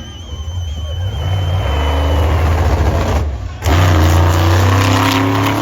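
Monster truck engine revving hard, the pitch climbing. It dips briefly about three seconds in, then comes back louder and rises again.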